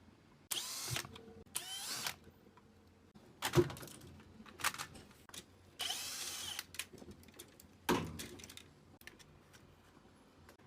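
Small handheld power tool, such as a cordless drill or electric screwdriver, running in three short bursts with a whine that sweeps in pitch, with clicks and knocks of handling in between.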